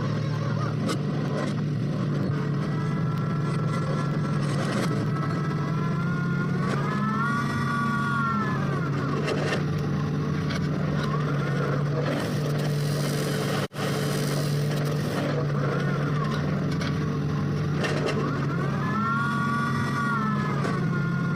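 Engine of a well-drilling machine running steadily under load. Twice its pitch swells up and back down over a second or so, and the sound breaks off for an instant about two-thirds of the way in.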